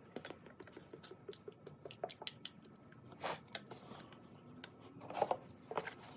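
Faint, irregular patter and small clicks of engine oil glugging out of a plastic bottle into a funnel, with a short louder rustle about three seconds in and a couple of knocks around five seconds.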